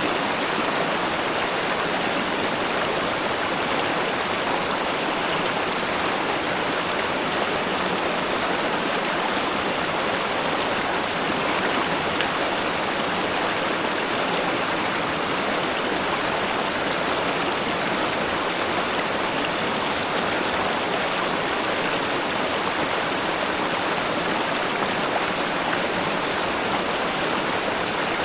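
River water flowing and rushing, a steady, unbroken sound.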